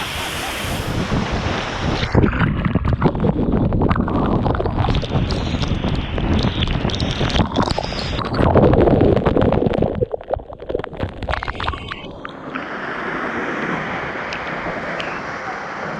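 Steady rushing of a large waterfall, overlaid from about two seconds in until about ten seconds by heavy wind buffeting on the microphone, which rumbles and gusts before the plain falling-water rush returns.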